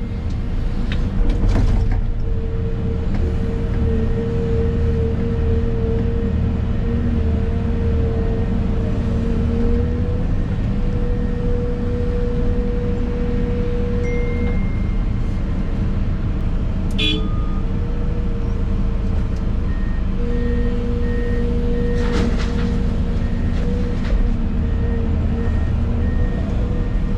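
Excavator diesel engine running under load inside the cab, with a steady hydraulic whine that shifts slightly in pitch as the machine works. A few knocks come about a second in and again about 22 seconds in.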